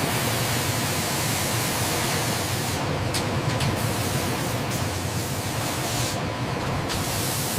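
Steady, loud industrial hiss over a low hum, with a few faint ticks around the middle: factory machinery running.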